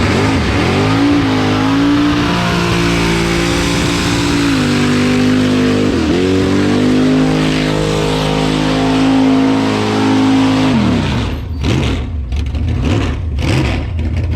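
Drift car engine held at high revs, its pitch dropping sharply and climbing back about half a second in and again around six seconds in, then falling away about eleven seconds in, followed by a few short knocks.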